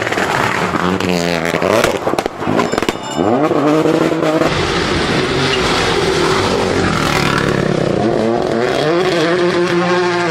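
Rally car engine at full throttle, its pitch climbing and dropping back at each gear change. A cluster of sharp cracks comes about two to three seconds in.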